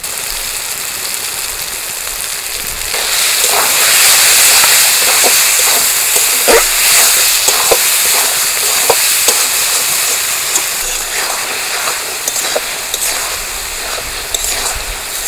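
Tomato and spice masala sizzling and frying in a kadai while a metal spatula stirs it, with short scrapes and taps of the spatula against the pan. The sizzle grows louder about three seconds in.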